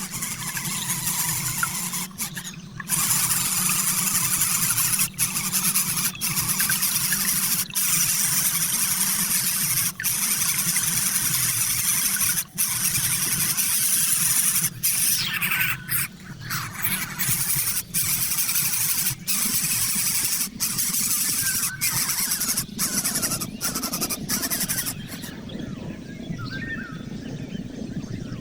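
Birds screeching shrilly and almost without pause, broken by brief gaps every second or two, fading near the end.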